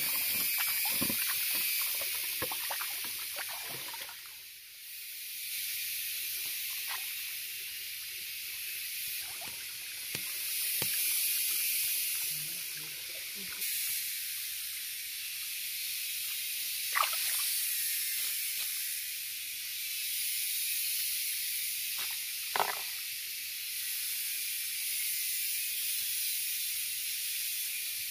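Food frying in a hot pan: a steady sizzling hiss with scattered crackles and pops, two of them sharper about 17 and 22 seconds in.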